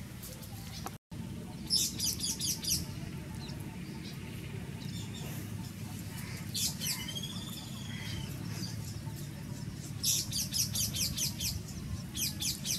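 Wild birds calling: a burst of rapid high chirps about two seconds in, a few whistled notes midway, and more rapid chirping near the end, over a steady low background rumble. A brief dropout about a second in.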